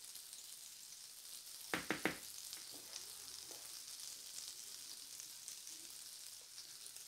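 Lentil-batter fritters (dahi bade made from urad, masoor and chana dal) sizzling in hot oil in a frying pan, a steady high hiss. About two seconds in come three quick, sharp taps.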